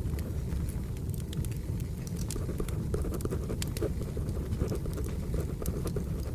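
Crackling wood fire: a steady low rumble of burning logs with irregular sharp pops and snaps, mixed with the soft scratching of a pencil writing on paper.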